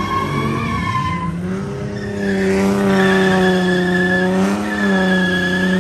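Car doing a burnout: the engine is held at steady high revs while the tires squeal. The engine note settles and holds from about two seconds in.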